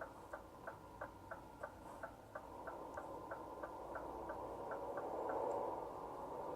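Turn-signal indicator ticking in a Scania R450 truck cab, about three ticks a second, stopping a little over four and a half seconds in. Under it the steady drone of the engine and road inside the cab swells louder near the end.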